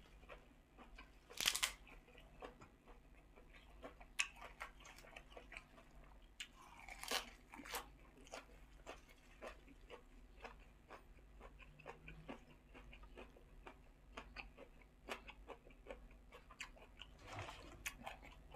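A person chewing crisp fresh herbs and vegetables with pork-sausage salad, close to the microphone: a run of small crunches and mouth clicks, with louder crunches about a second and a half in, around four and seven seconds in, and near the end.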